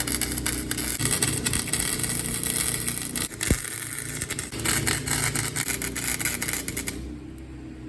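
Flux-core wire welder arc crackling for about seven seconds, with a brief break about three and a half seconds in, over a portable generator engine running steadily at full throttle. The arc stops near the end, leaving the generator's steady hum.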